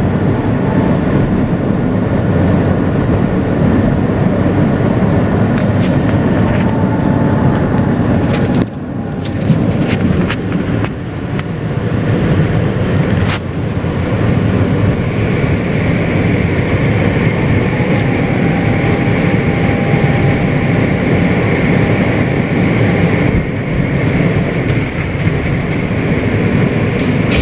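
Interior of a Kawasaki R160B subway car with Siemens propulsion running along the track: a steady rumble, with clicks of the wheels over rail joints in the first half and a steady high whine from about halfway.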